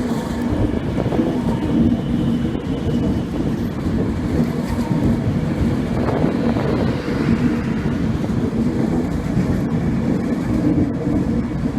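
A train running close by: a steady, loud rumble with a low droning hum.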